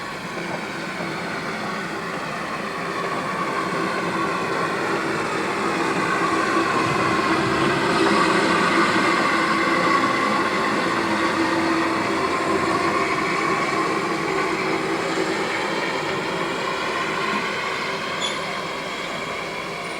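A narrow-gauge train on the Welshpool and Llanfair Light Railway running past, growing louder to a peak about halfway through and then fading.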